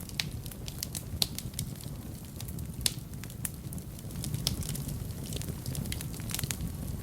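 Wood fire burning in a fireplace, crackling with irregular sharp pops and snaps over a low rumble of the flames.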